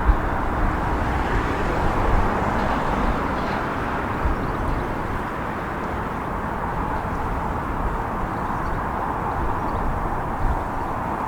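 A train running, heard as a steady noise with a few low thumps.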